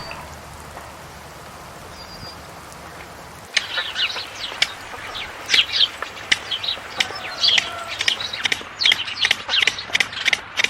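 Small birds chirping: a rapid, busy run of short high chirps that starts about three and a half seconds in, after a few seconds of faint hiss.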